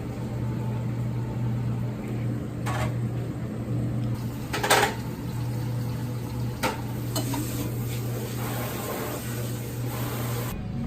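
Dishes clattering a few times, loudest about five seconds in, over a steady low hum from a kitchen appliance.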